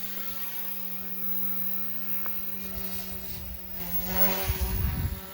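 OMP M1 small electric RC helicopter in flight: a steady, buzzing motor-and-rotor hum. A louder low rumble comes in about four seconds in and lasts about a second.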